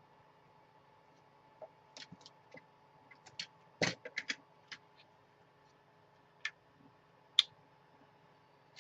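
Hard plastic LiPo battery case being pried and broken apart by hand: scattered sharp clicks and snaps, with a fuller crack about four seconds in and the sharpest snap about seven seconds in.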